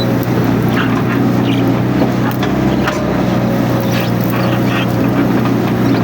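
Mini excavator's diesel engine running steadily under load, with short crackles and squeaks scattered over it.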